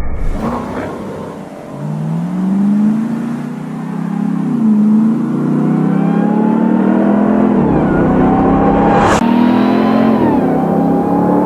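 Ram 1500 TRX's supercharged 6.2-litre V8 accelerating hard through the gears, its pitch climbing and then dropping at each of about three upshifts. A short sharp noise cuts in about nine seconds in.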